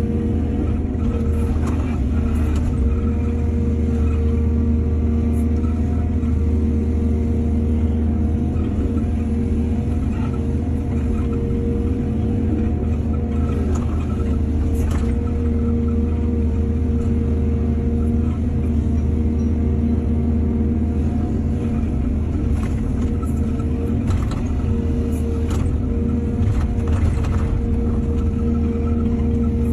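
Excavator's diesel engine running steadily, with a few short knocks and clanks scattered through it, mostly in the second half.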